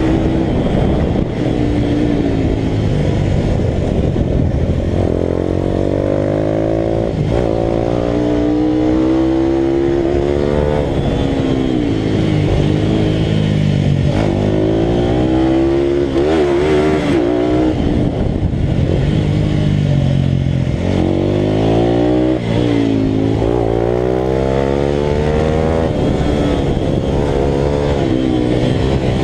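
Italika RT200 motorcycle's single-cylinder engine at race pace, its pitch sweeping up again and again as it revs hard through the gears, then dropping back at each shift or corner.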